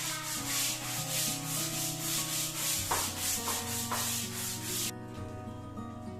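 Brisk back-and-forth scrubbing, a brush rubbed hard over a surface in quick repeated strokes, that stops suddenly about five seconds in. Background music plays under it.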